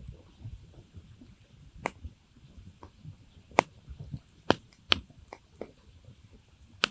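Campfire crackling: a handful of sharp, irregular pops and snaps from the burning wood over the soft low rumble of the flames.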